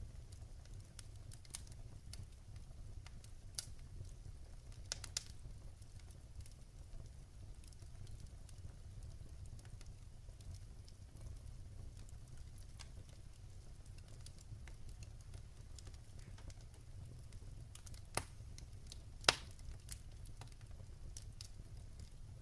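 Wood fire burning in a fireplace: a steady low rumble of flames with scattered crackles and pops, two sharper pops near the end, the second the loudest.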